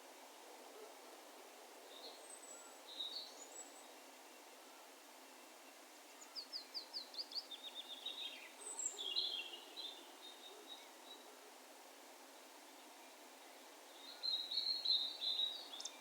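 Songbirds calling at a distance over a faint steady background hiss. There are short high calls about three seconds in, then a rapid trill of falling chirps, a cluster of calls around the middle, and a busier burst of calls near the end.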